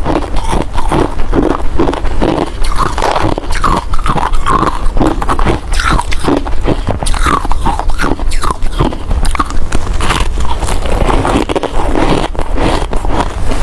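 A person biting and chewing ice close to the microphone: a continuous run of sharp crunches, several a second.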